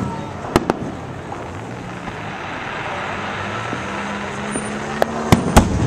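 Aerial fireworks bursting overhead: two sharp bangs close together about half a second in, then three more near the end. A steady hum of vehicle noise runs underneath.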